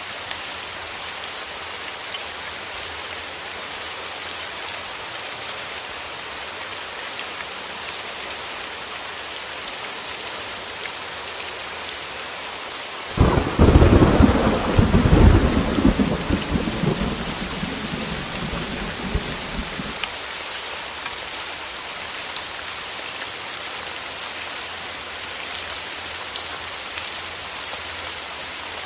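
Heavy rain falling steadily, with one clap of thunder about halfway through that breaks in suddenly and rumbles for several seconds before fading back under the rain.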